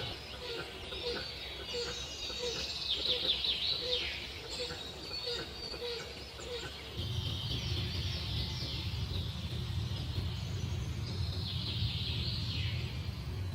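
Birds chirping in quick runs of high-pitched calls, with a steady low hum that comes in about halfway through.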